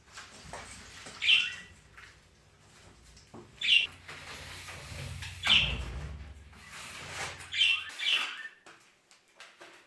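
Budgerigars calling: five loud, sharp chirps spaced roughly two seconds apart, with softer chatter between them. A low hum runs underneath and stops about eight seconds in.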